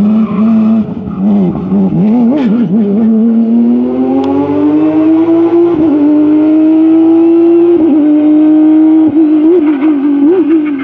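Rally car engine at full load: a few quick throttle changes, then it pulls hard up through the revs, with two brief dips like gear changes. It revs unevenly again near the end before the pitch drops away.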